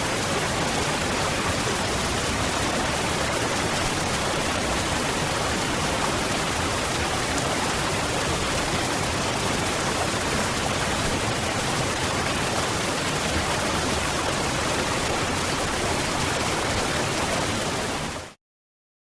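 Waterfall: a steady, even rush of falling water that fades out quickly and cuts to silence near the end.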